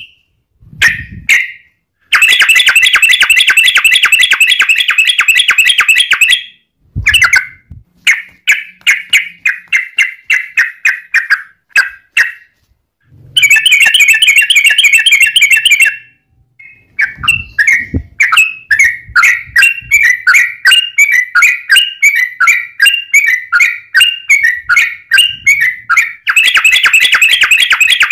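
Yellow-vented bulbul (trucukan) singing in long bouts of fast, repeated bubbling notes, broken by short pauses, with a few soft low thuds in between.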